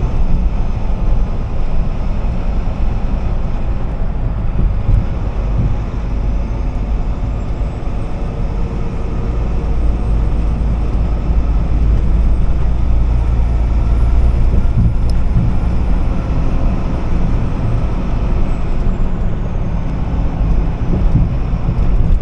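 Truck driving down the road: a steady low engine and road rumble.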